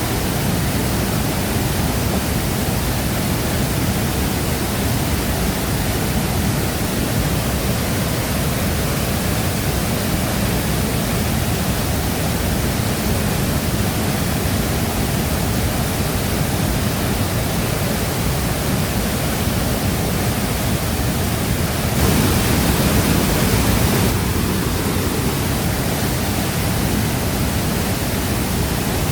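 Steady, dense rush of Shifen Waterfall's falling water, heaviest in the low end. It grows a little louder for about two seconds some three-quarters of the way through.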